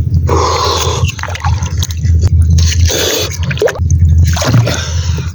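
Water splashing and sloshing in three surges, over a steady low hum.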